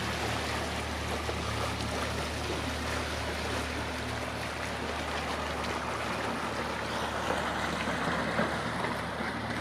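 Motor boat engine running at a steady low speed, its hum under the rush of churned water.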